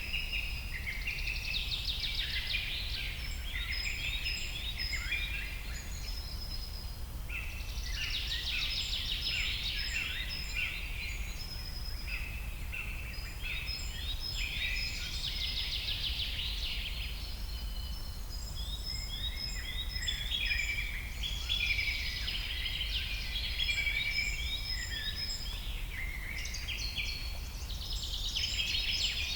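Several forest birds singing at once: overlapping chirps, rapid runs of notes and thin high whistles that swell every few seconds, over a steady low rumble of background noise.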